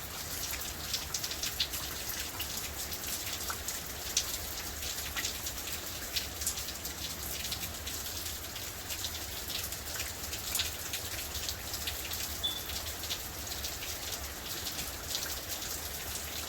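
Steady rain falling, with the short ticks of many single drops striking close by.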